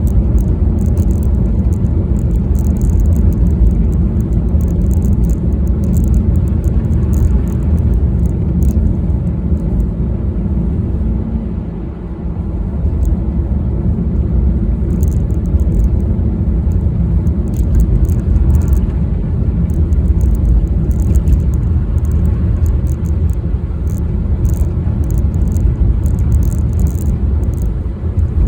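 Car driving along the road: a steady low rumble of engine and tyre noise, easing briefly about twelve seconds in, with scattered faint high ticks.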